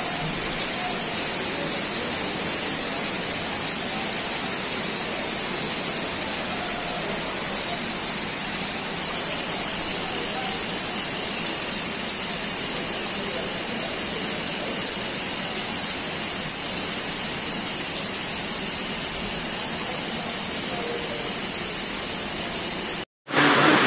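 Heavy rain falling steadily, a dense even hiss of downpour on grass and wet pavement. It drops out briefly near the end.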